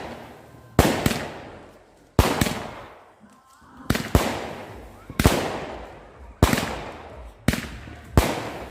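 Fireworks going off in a steady series of seven loud bangs, about one every second or so, each dying away over about a second.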